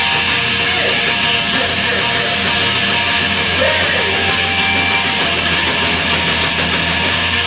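Rock band playing loud music with distorted electric guitars, dense and unbroken.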